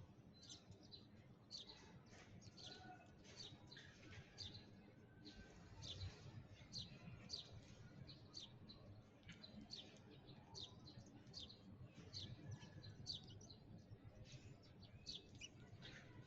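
Sparrows chirping: a continuous stream of short, high chirps, several a second, with a faint low rumble underneath.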